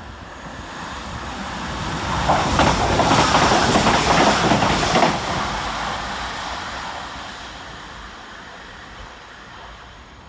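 Northern Class 195 diesel multiple unit passing through the station at speed. Its sound builds as it approaches, peaks for about three seconds with rapid wheel clicks over the track, then fades as it runs away.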